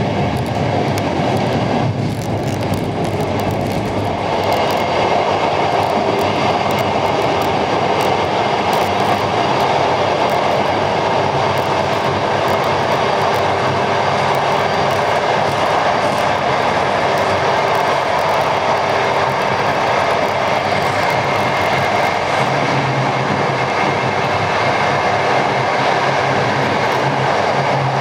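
InterCity passenger train running along the line: a steady rumble of wheels on rails with scattered clicks, a little louder from about four seconds in, and a low hum coming in near the end.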